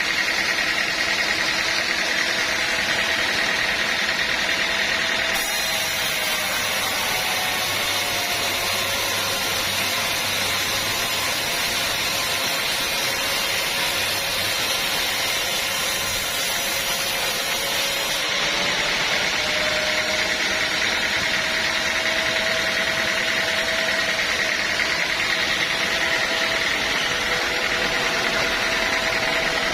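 Sawmill machinery running steadily. For about thirteen seconds in the middle a higher hiss joins in and the motor's note sags, then both return to the steady running sound.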